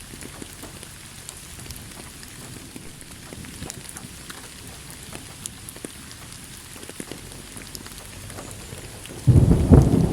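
Steady rain with scattered drops pattering. Near the end a sudden loud low thunder rumble breaks in.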